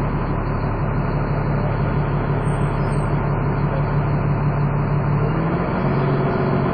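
Dennis Trident 2 double-decker bus engine running hard under load, with the hoover-like whine the bus is known for. The engine note holds steady, then shifts about five and a half seconds in.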